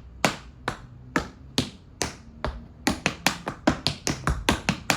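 Tap shoes striking a hard floor in a four-sound paddle and roll (stamp, brush, step, heel). The taps come evenly, about two a second, then quicken to a fast even run of about five or six a second from about halfway through.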